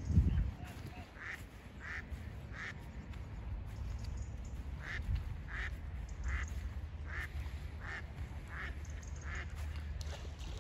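A bird at a pond calling over and over, short calls about two-thirds of a second apart in two runs, over a steady low rumble of wind. A thump at the very start.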